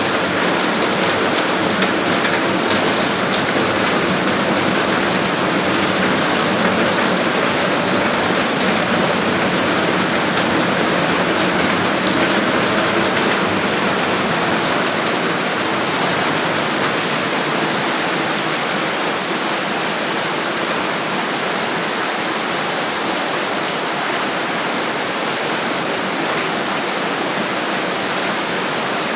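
Heavy rain pouring down, with runoff water rushing in a loud, steady wash.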